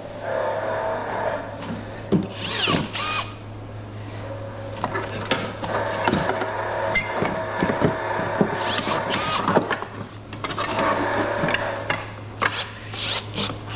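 Handheld power drill or driver whining in short runs while taking apart an air conditioner, with many sharp metal clanks and knocks and a few scraping squeals in between.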